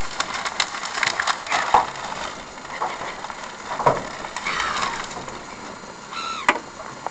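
Seagulls squawking, with a falling call about four and a half seconds in and another call near the end, among scattered clicks and knocks.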